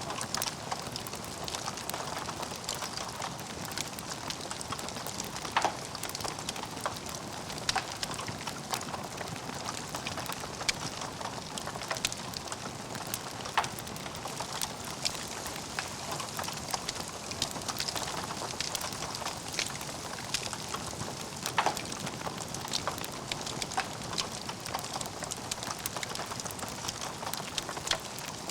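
Logs burning in a fireplace, crackling steadily with a soft hiss and many irregular sharp pops, a few of them louder.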